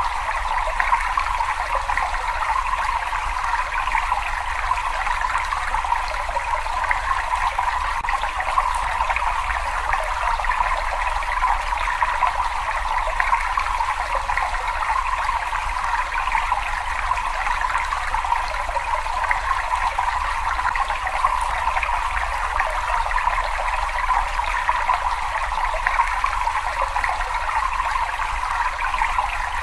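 Cave water running and trickling steadily, an even splashing wash with no change or pause.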